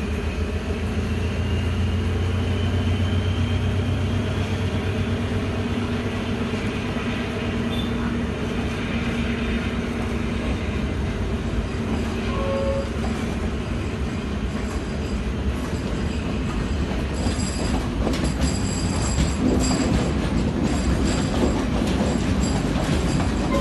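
A train running on rails: a steady low rumble, with a slowly rising whine over the first several seconds and rattling clicks through the second half.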